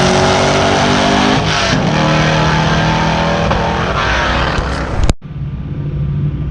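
Loud drag car engine running at high revs, its pitch dipping and climbing back about a second and a half in. The sound cuts off abruptly about five seconds in, leaving a quieter steady engine.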